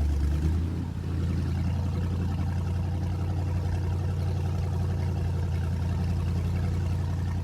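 An engine running at a steady speed, a loud, even low drone that holds without change.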